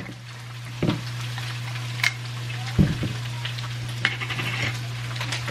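Mushrooms and ground beef sizzling in a wok, over a steady low hum, with a few sharp clicks as the lid is twisted off a jar of tomato sauce.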